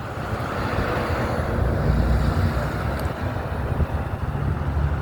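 Wind buffeting the phone's microphone over a steady low rumble of street traffic.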